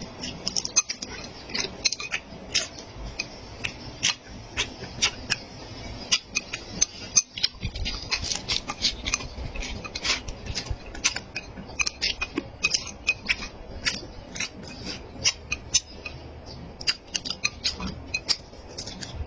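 Eating sounds: many quick, irregular clicks and smacks of chewing, with utensils clinking against dishes.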